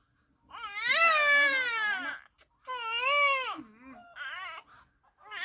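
A baby crying: three wailing cries, each rising then falling in pitch, the first and longest about half a second in, the last short and weaker near the end.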